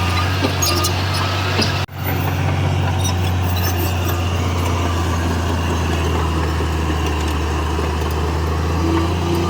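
Heavy diesel construction machine's engine running steadily with a deep hum. The sound drops out for an instant just under two seconds in.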